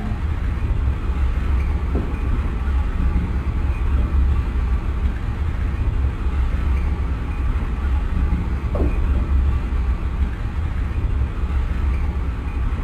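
Lisbon Metro ML90 train running between stations, heard from aboard: a steady, loud low rumble of the wheels on the track. Two brief squeals fall in pitch, about two seconds in and again near nine seconds.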